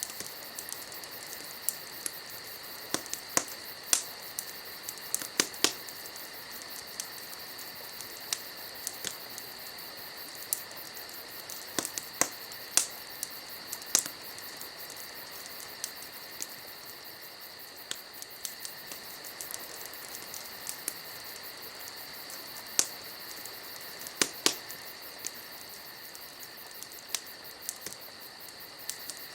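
Wood fire crackling, with irregular sharp pops a few times a second and an occasional louder snap. Behind it runs a steady insect trill, likely crickets.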